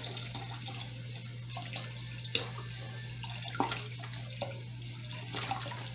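Homemade chicken broth being poured into a pressure cooker pot: a steady splashing pour, with a few light knocks against the pot.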